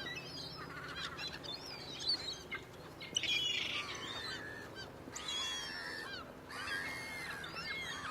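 Gulls calling: many short, high, gliding calls from several birds overlapping.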